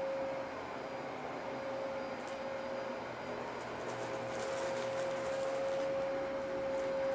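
Dyson DC33 upright vacuum cleaner running with a steady whine, with faint crackles about two seconds in and again around four to five seconds as it picks up debris.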